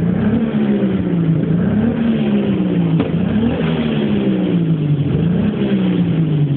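Nissan Skyline R34's engine revved in repeated throttle blips through its exhaust, done to make the exhaust spit flames. The pitch jumps up quickly and sinks slowly each time, several times over, and drops lower near the end.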